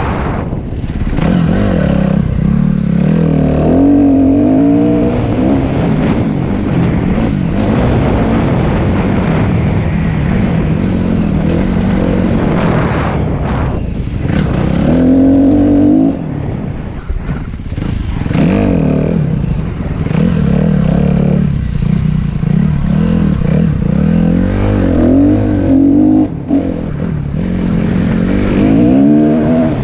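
Dirt bike engine ridden hard, revving up and falling back several times as it pulls through the gears, over a steady rough rumble.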